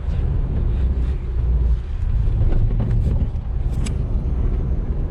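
Car driving up a steep road, heard from inside: a steady low engine and road rumble, with one short click just before four seconds in.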